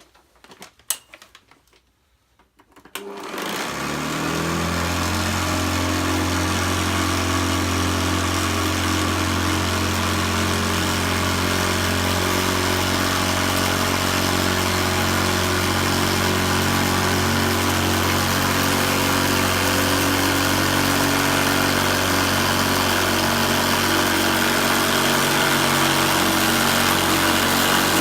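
A few clicks and knocks, then a Hoover Senior Ranger U4002 upright vacuum cleaner switched on about three seconds in: its motor runs up in pitch and settles into a loud, steady running sound with the beater bar agitating the carpet. The machine is a bit rickety and rattly, which the owner puts down to something loose underneath by the motor.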